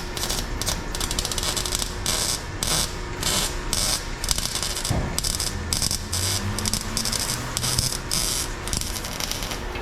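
Shop pneumatic tool, such as an air ratchet, run in a quick string of short hissing, rattling bursts, about two to three a second.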